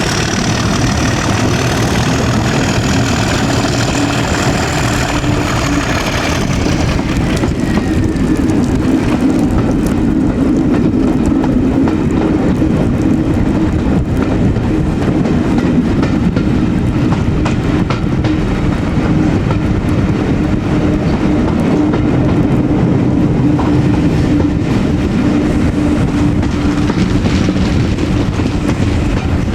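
Class 37 diesel locomotive's English Electric twelve-cylinder engine working steadily at the head of the train, heard from a carriage behind it, with wheels running over the rails. A high whine rises and then falls away over the first several seconds.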